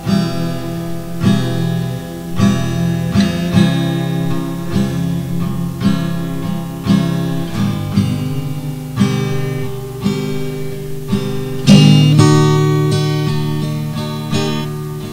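Acoustic guitar strummed in a steady rhythm through an instrumental break between sung verses of a slow folk song. One strong strum about twelve seconds in rings out.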